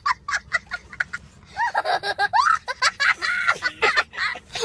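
People laughing: high-pitched giggles in quick repeated bursts, mixed with laughing voices that rise and fall in pitch.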